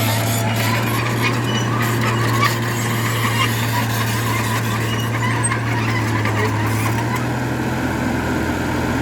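Bulldozer at work: its diesel engine drones steadily while the steel tracks give a constant high squeal and a dense crackling clatter from the tracks and dirt.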